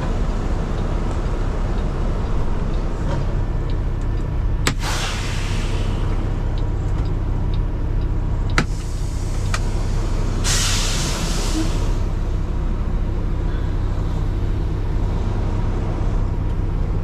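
A Kenworth T680 semi truck's diesel engine idling steadily. Its air brake system gives two short hissing releases of compressed air, the first with a sharp click about five seconds in and the second a little after ten seconds. There are a few more clicks in between.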